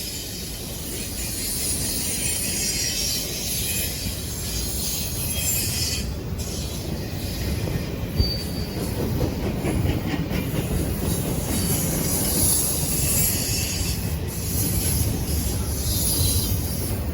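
Freight train cars rolling past on the rails, a steady rumble with high-pitched wheel noise on top and a single sharp click about eight seconds in.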